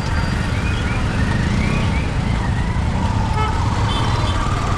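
Steady low rumble of wind and engine on a moving motorcycle in city traffic. Over it, a warbling siren repeats in quick rising-and-falling sweeps through about the first half.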